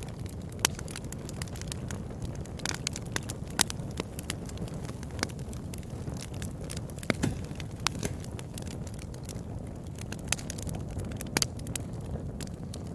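Wood campfire burning with a steady low rush under irregular sharp crackles and pops, a few louder snaps standing out.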